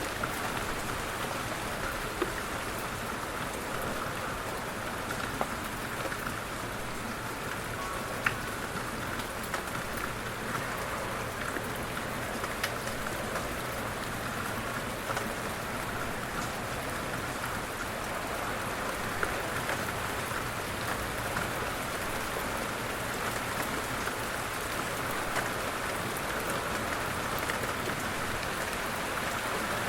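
Light rain falling steadily: a soft, even hiss with scattered louder individual drop taps.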